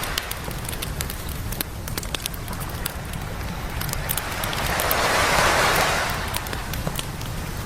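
Campfire crackling with frequent sharp pops, while a single wave washes up the beach, swelling about four seconds in, peaking, then fading away near the end.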